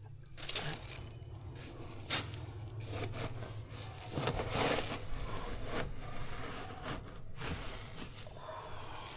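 Irregular scrapes and sharp clicks with some rustling, over a low steady hum.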